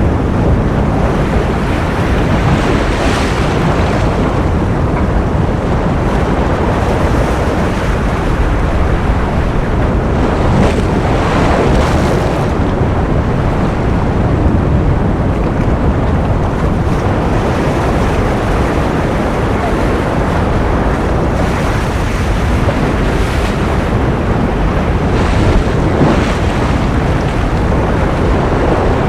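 Ocean surf as a continuous rushing noise, heavy in the low end, with waves swelling and washing in now and then.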